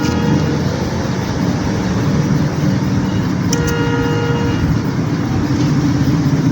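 Steady road traffic noise, with a vehicle horn sounding for about a second around the middle.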